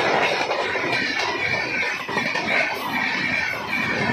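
Passenger coaches of an express train rolling past at speed close by. The wheels on the rails make a steady dense rumble, with a wavering high-pitched squeal from the wheels over it.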